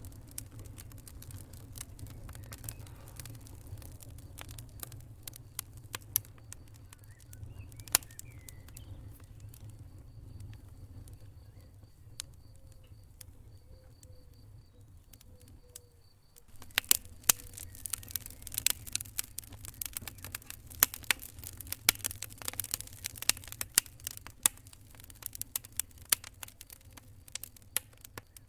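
Wood fire crackling: irregular sharp pops and snaps over a low steady rumble. About sixteen seconds in it briefly drops away, then the popping comes back thicker and louder.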